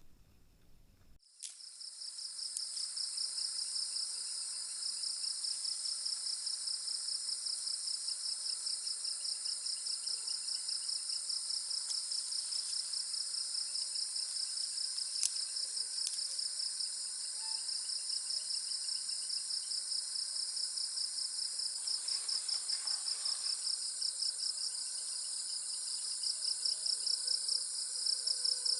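Steady chorus of insects: a high-pitched trill that pulses rapidly and keeps on without a break, starting abruptly about a second in.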